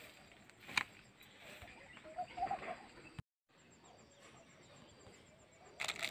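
A few short bird calls over faint outdoor background, with a sharp click just under a second in and a brief dead-silent gap near the middle.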